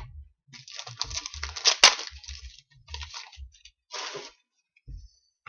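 Trading cards being handled and sorted by hand: papery sliding and shuffling of cards against each other, with a sharp click near the start and another a little under two seconds in, and soft low knocks as cards are set down.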